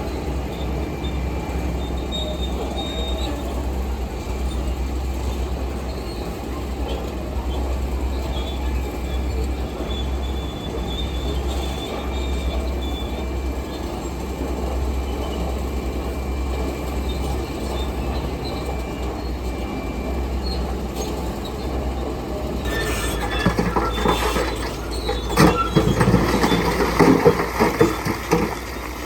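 Heavy diesel construction machinery running with a steady low drone and thin high-pitched metallic squeals. Near the end, uneven knocking and clattering begin and grow louder.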